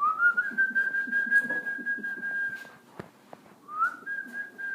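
A person whistling a long, steady note that slides up at the start and holds for over two seconds, then, after a short pause, a second note that slides up the same way and holds.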